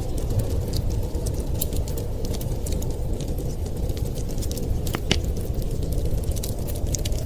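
Wood fire crackling in a fireplace, with scattered sharp pops and a louder double pop about five seconds in, over a steady low rush of winter storm wind.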